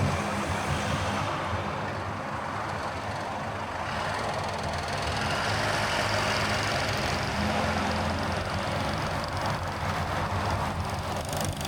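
Steady road noise of a car driving at highway speed: tyre rumble and wind, with a low engine hum and a slight swell about halfway through.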